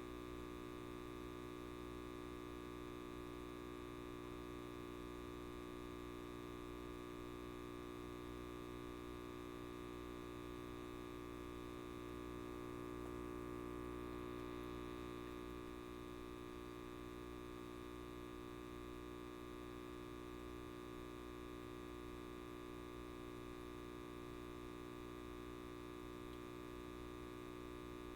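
A light bulb buzzing with a steady electrical hum made of many even tones, growing slightly louder about halfway through.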